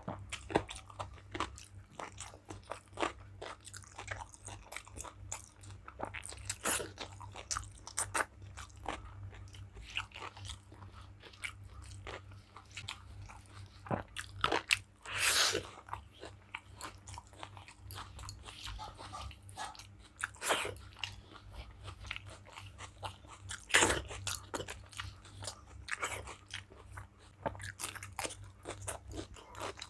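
A person chewing and crunching food close to the microphone, with many short sharp mouth clicks and bites.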